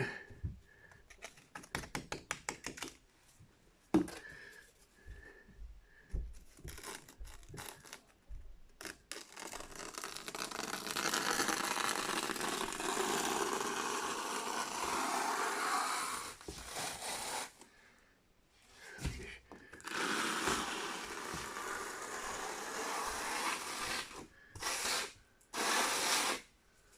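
Hand tools at work: a quick run of tapping near the start and a single knock, then long stretches of steady scraping and rubbing.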